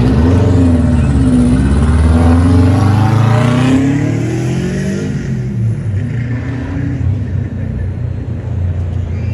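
Car engine accelerating hard. The engine note rises, dips and rises again, then falls away about five seconds in, leaving a lower engine rumble.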